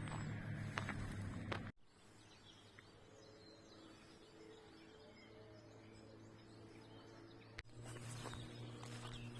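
Footsteps on a forest path, stopping after about two seconds. Faint birds chirp in the quiet that follows. The steps start again near the end.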